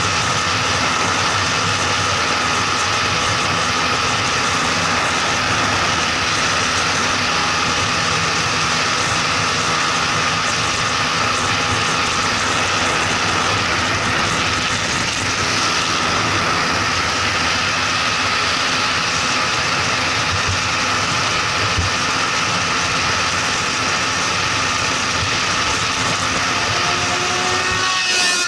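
Motorcycle engine running at a steady cruising speed, heard from a camera mounted on the moving bike, mixed with steady wind rush.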